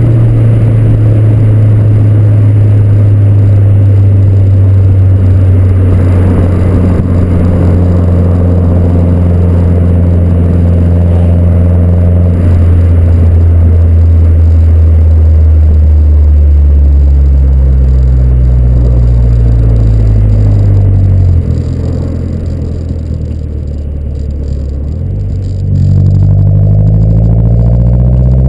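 Mazdaspeed3's turbocharged 2.3-litre four-cylinder, breathing through a 100-cell catted downpipe, stock resonated midpipe and Ultimate Racing axle-back exhaust. It runs loud with its pitch slowly falling, goes quieter for a few seconds about three-quarters of the way through, then climbs in pitch again as it accelerates near the end.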